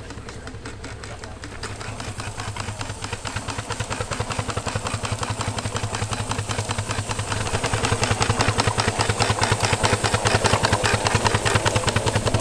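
Miniature live-steam traction engine running, its exhaust chuffing in rapid, even beats that grow steadily louder.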